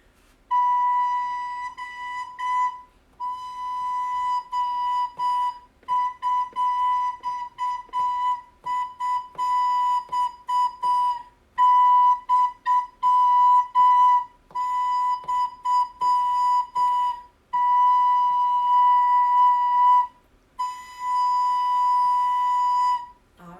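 A soprano recorder plays the note B over and over in short tongued rhythm patterns, with brief pauses between the patterns. It ends with one long held whole note.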